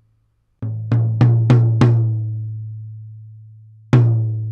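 A single tom-tom struck five times in quick succession, about three hits a second, then once more near the end and left to ring out. Each stroke has a sharp attack and the same low note, decaying slowly.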